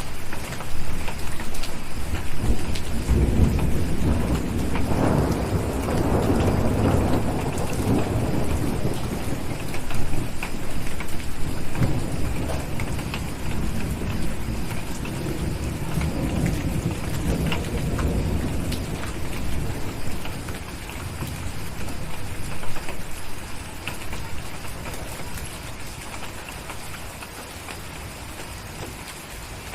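Steady rain with a long rolling rumble of thunder that builds a few seconds in, peaks, and slowly dies away over the next fifteen seconds or so.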